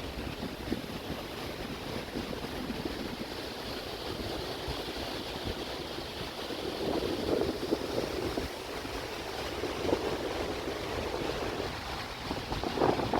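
Steady rush of falling water, with wind gusting across the microphone now and then.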